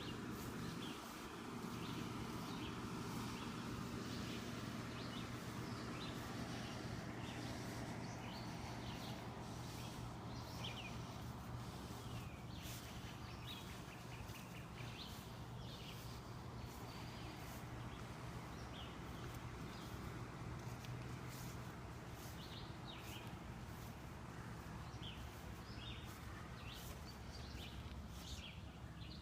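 Quiet outdoor ambience: birds give scattered short chirps over a steady low hum and soft background noise.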